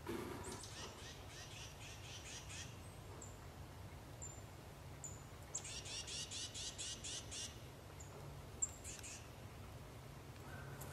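Wild birds calling: two runs of fast, evenly repeated high chattering notes, one near the start and one about halfway through, with faint single high chirps in between.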